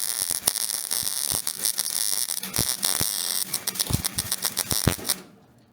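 MIG welder arc crackling and sizzling while a weld is built up, cutting out suddenly about five seconds in as the welder's power supply trips.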